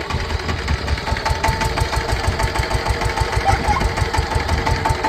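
Twenty-horsepower engine of a mini power tiller running steadily, with a quick, even chugging of firing strokes.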